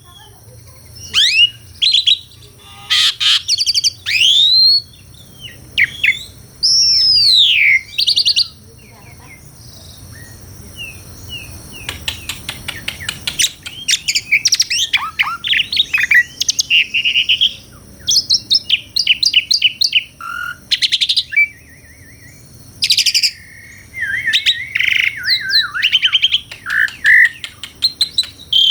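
Asian pied starling singing a varied, loud song of clear whistles, sweeping up-and-down slurred notes and quick rapid-fire note series, with a pause of a few seconds about a third of the way in.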